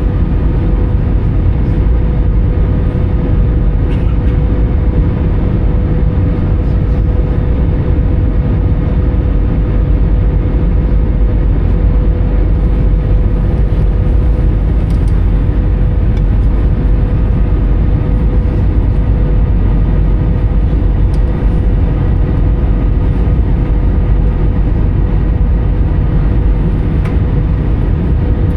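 Steady cabin noise of an Airbus A320 heard from a window seat: a constant rush with a low drone from its CFM56 engines and a steady hum.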